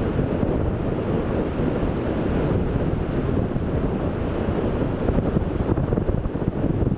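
Wind buffeting the microphone over ocean surf: a steady rushing rumble with no distinct breaks.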